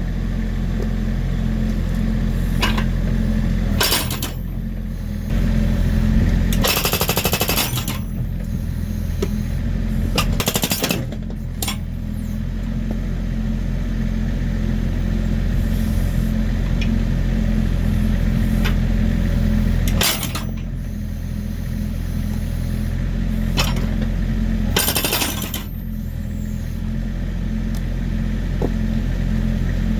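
Volvo EC60E mini excavator's diesel engine running steadily while its hydraulic breaker hammers in several short bursts, the longest lasting about a second, splitting firewood logs.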